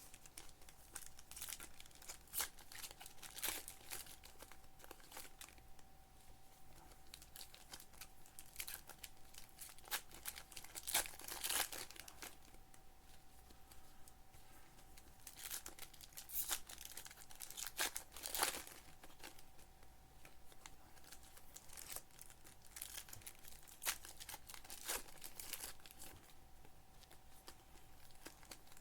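Trading card pack wrappers being torn open and crinkled, and cards handled, in an irregular string of short crackling rips. The ripping is busiest about a third of the way in and again around two-thirds of the way through.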